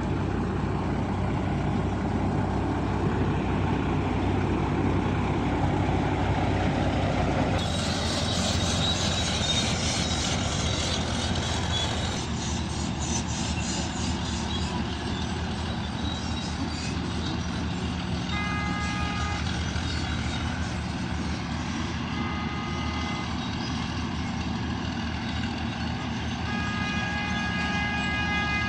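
Heavy earthmoving machine's engine running steadily, its sound changing abruptly twice in the first half. In the second half a held tone of several notes sounds three times, each for a second or more.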